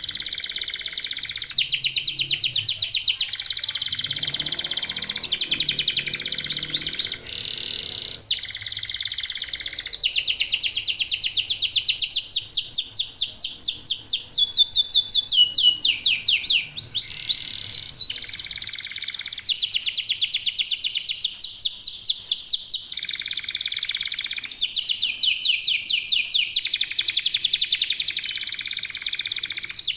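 Local domestic canaries in full song: long, fast trills of rapidly repeated high notes follow one another almost without a break. There is a brief pause about eight seconds in.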